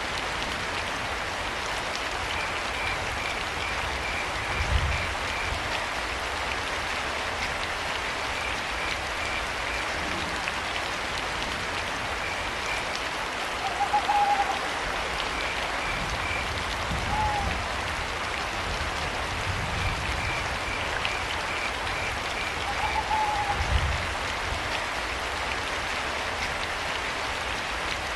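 Steady rain, with crickets chirping in short trains of rapid pulses every few seconds. In the second half an owl hoots three times, in short, slightly arched notes. A few low thuds come through the rain.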